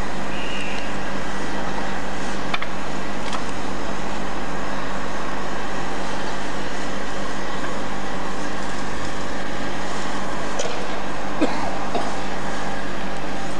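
Steady railway platform noise beside a standing passenger train: a constant hum and rumble with a few faint knocks.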